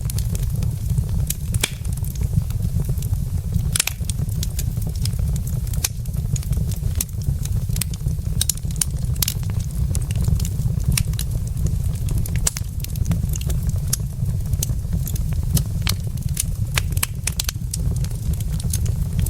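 Wood fire burning in a fireplace: frequent irregular pops and snaps from the burning logs over a steady low rumble.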